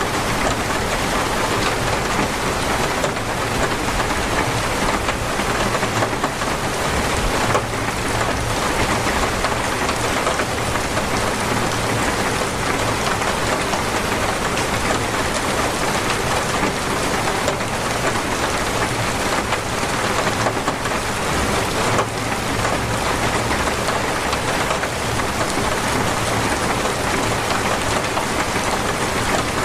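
Heavy, torrential rain falling steadily in a dense, even downpour.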